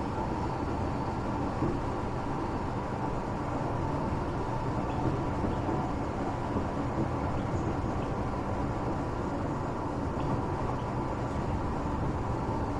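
Tokyo Metro 8000 series electric train running between stations, heard from inside the car: a steady rumble of wheels on the rails with a faint steady tone above it.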